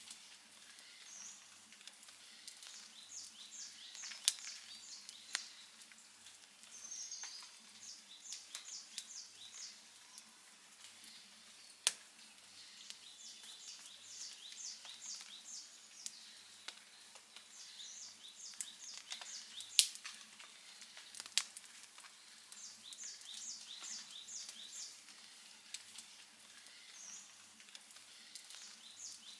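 Outdoor wood fire crackling, with a sharp pop every few seconds. High chirps come in quick repeated runs behind it.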